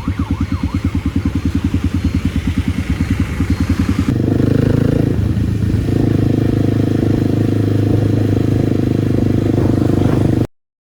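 Kawasaki D-Tracker 250's single-cylinder four-stroke engine through an aftermarket White Brothers exhaust, ticking over with distinct even firing pulses, then picking up about four seconds in and running steadily and louder, with a brief dip a second or so later. A siren wail fades out in the first second, and the sound cuts off suddenly near the end.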